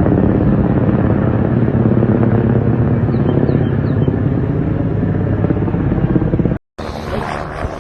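Loud steady engine rumble with a low hum, which cuts off abruptly about six and a half seconds in as a different, quieter recording begins.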